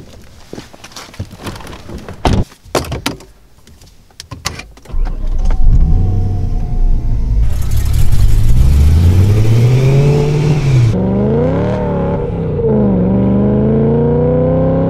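A few clicks and knocks of someone settling into the car, then the BMW E92 M3's 4.0-litre V8 starts about five seconds in and pulls away. Its pitch rises as it accelerates, drops sharply about two-thirds of the way through as a gear changes, and climbs again.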